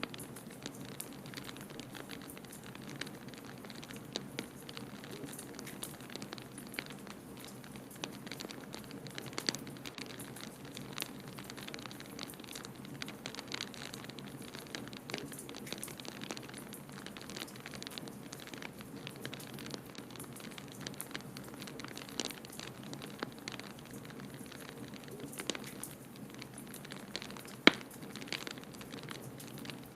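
Wood fire crackling in a fireplace: irregular small pops and snaps over a steady hiss, with one sharp, much louder pop near the end.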